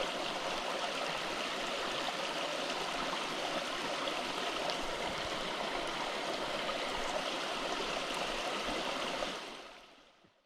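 A mountain stream running steadily, with a few faint clicks, fading out over the last second or so.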